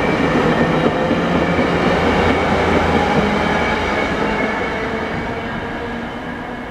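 SEPTA GE Silverliner IV electric multiple-unit train running past on the rails with a steady rumble, fading over the second half as the last car pulls away.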